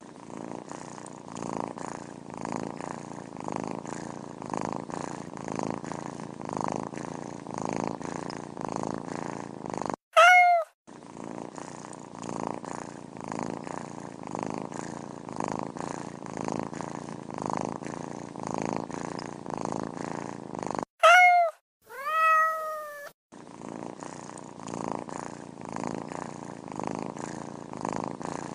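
Domestic cat purring steadily and rhythmically. The purring is broken by a short, high meow about ten seconds in, another about twenty-one seconds in, and right after it a longer, lower meow that falls in pitch.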